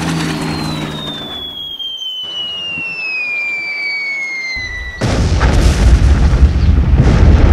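Falling-bomb whistle sound effect gliding steadily down in pitch for about five seconds, then a sudden loud explosion with a heavy low rumble.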